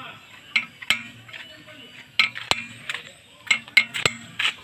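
Metal tools and parts clinking and tapping against each other, about nine sharp clinks.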